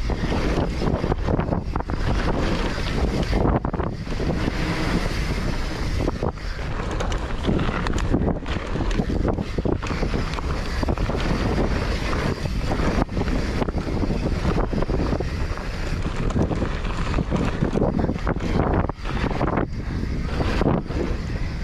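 A mountain bike riding a dirt trail: wind rushing over the microphone and tyre noise, with frequent short knocks and rattles from the bike over rough ground.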